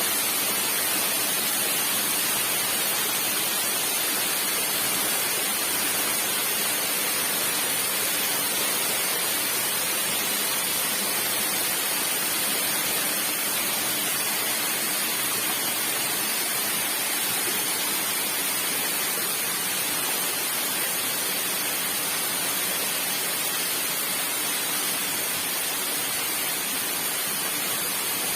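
Steady, even rushing noise of water falling from a 70-metre waterfall.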